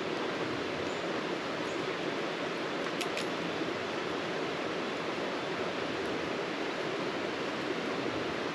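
Steady rushing of water, an even hiss with no rhythm, with two light clicks about three seconds in.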